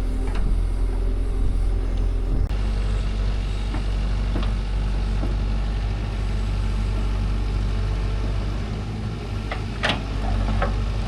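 A motor running steadily at idle, a low even hum, with a few sharp knocks near the end.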